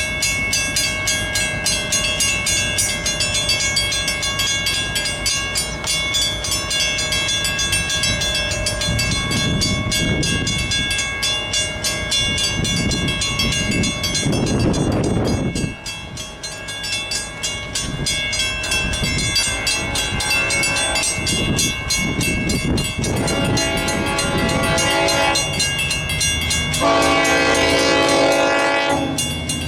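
Grade-crossing warning bells ringing steadily while a train rumbles past over the rails. About 27 seconds in, a train horn sounds a loud sustained chord.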